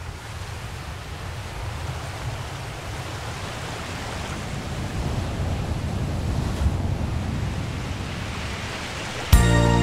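Ocean waves washing in, a steady rushing that slowly swells louder. Near the end, music starts suddenly with loud chords.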